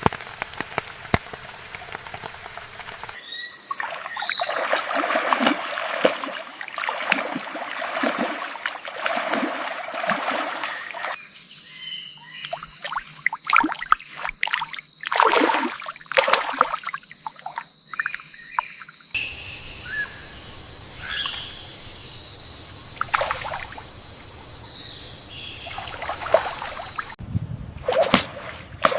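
Rainforest ambience edited together from several recordings, changing abruptly about every eight seconds. It holds trickling and splashing water, bird calls and, in some stretches, a steady high-pitched drone.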